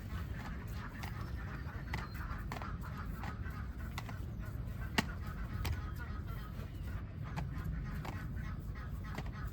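A flock of domestic ducks quacking in a dense, continuous chatter, with scattered sharp clicks, one louder than the rest about halfway through, over a steady low rumble.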